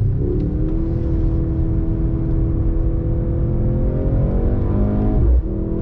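The 2.0-litre turbocharged four-cylinder engine of a Mercedes-AMG C63 S E Performance running hard under power. Its note climbs with the revs, breaks sharply at a gear change about five seconds in, and then starts climbing again.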